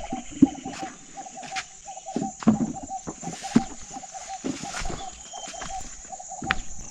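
A bird calling in a steady string of short repeated notes, over scattered knocks and rustling close by.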